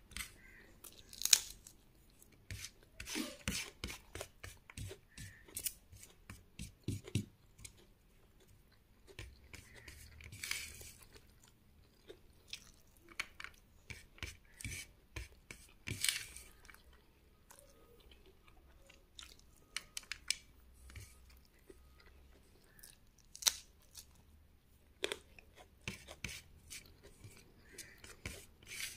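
Close-up chewing of mouthfuls of hand-eaten rice, with fingers gathering and scraping rice across a plate, heard as irregular short clicks and crackles.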